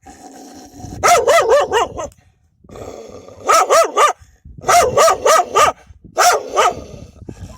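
Dogs barking fiercely in rapid volleys, four bursts of several quick barks each, in defensive barking over their puppies.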